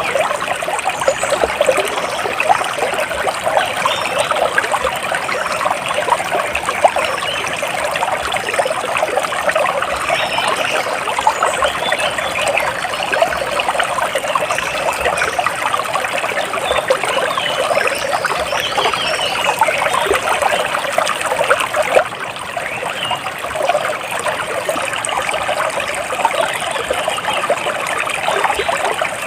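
Water trickling and splashing steadily, like a small stream, a dense even patter of many small splashes.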